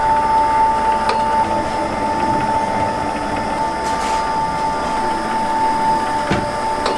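A machine running steadily, with a constant high-pitched whine and a few light clicks.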